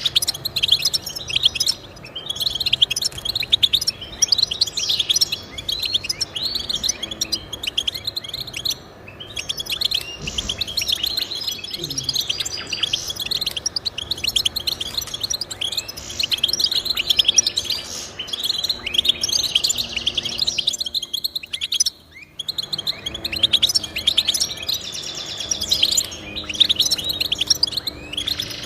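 Finch singing a long, fast song of rapid chirps and trills, with a brief pause about three quarters of the way through.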